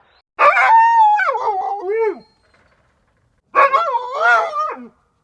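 Dog howling twice, two long wavering howls with a gap between them.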